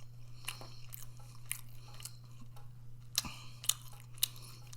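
A person chewing a mouthful of orange chicken close to the microphone: irregular wet clicks and smacks, a few sharper ones in the second half, over a steady low hum.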